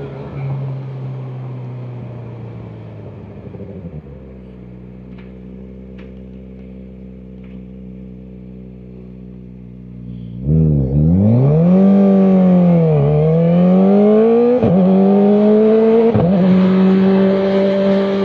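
Kawasaki Ninja ZX-4RR's inline-four engine dropping to idle and idling steadily, then revving hard about ten seconds in as the bike pulls away, with three quick dips in pitch as it shifts up before settling into a steady run.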